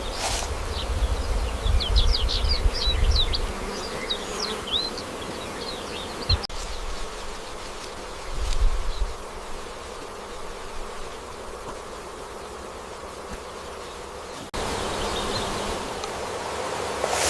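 Orchard ambience with insects buzzing, a run of short high chirps in the first few seconds, and bursts of low rumble.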